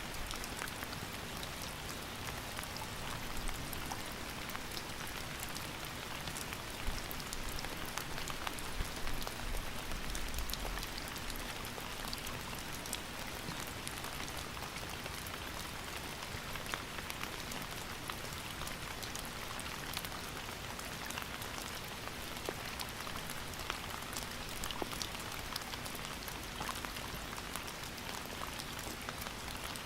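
Steady rain falling, the patter of countless drops hitting a surface, with a few louder individual drops.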